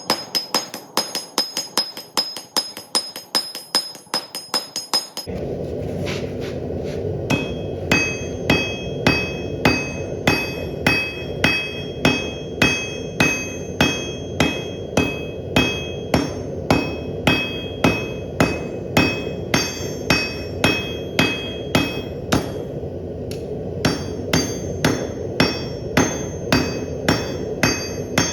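Hand hammer striking steel on an anvil in a steady rhythm of about two blows a second, each blow ringing bright and metallic. About five seconds in, a steady rushing noise starts up under the blows.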